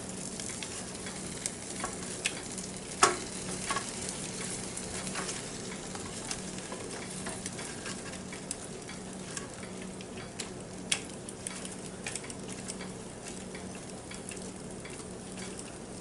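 Chicken wings sizzling steadily in the basket of a NuWave Brio 10-quart air fryer, with scattered light clicks as tongs move the wings against the basket.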